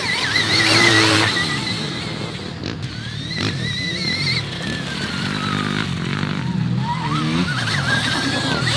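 Stark VARG electric motocross bike's motor and drivetrain whining as it is ridden, the high whine rising and falling several times as the rider gets on and off the throttle, over a lower rumble.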